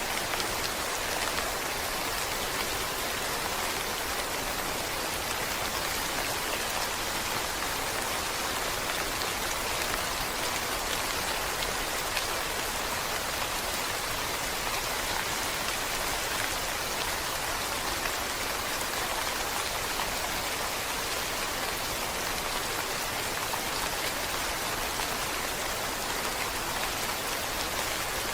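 Steady rain falling: an even hiss of many small drops that neither builds nor eases.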